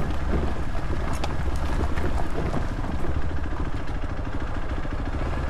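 Motorcycle engine running steadily while riding along a dirt forest track, with a few sharp clicks about a second in.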